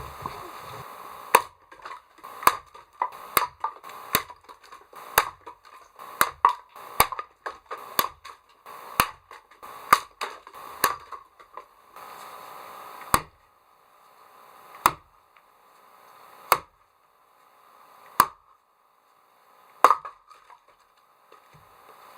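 Firewood being chopped: sharp chopping blows on wood, quick and irregular through the first half, then single blows about every second and a half to two seconds.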